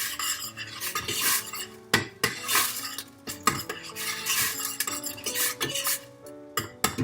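A utensil stirring and scraping in a metal cooking pot, with irregular clinks and scrapes of metal on metal.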